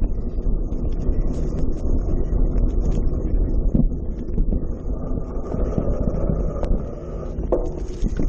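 Steady rumbling wind noise buffeting the microphone, with scattered short clicks and knocks.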